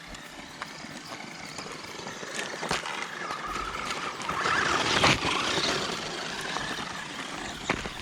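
Small radio-controlled car driving over rough ground: the electric motor whines and the car clatters, building to its loudest about five seconds in, with scattered sharp clicks.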